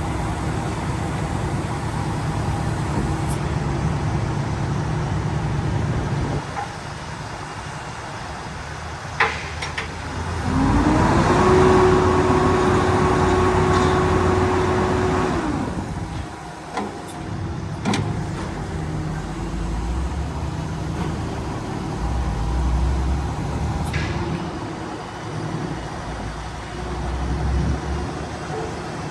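Diesel engine of a Freightliner M2 106 garbage truck running at idle. Partway through, a louder whine rises in, holds for about five seconds and stops, with a few sharp clunks around it.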